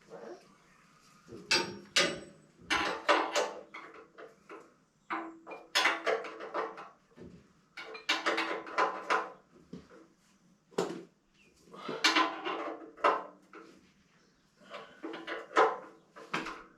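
Ratchet spanner clicking in short bursts with metallic clatter, as the engine's sump (drain) plug is done up after an oil change.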